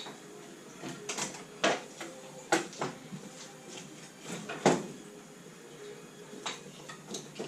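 Hand tools and metal parts clinking and knocking in a workshop while the engine is being removed from a classic Mini. The knocks are irregular and sharp, about a dozen of them, with the loudest a little past halfway.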